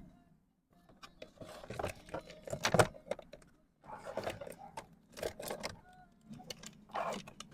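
Loose steel timing-chain parts clinking and rattling in bursts as they are handled and swapped by hand, with quick sharp metal-on-metal clicks.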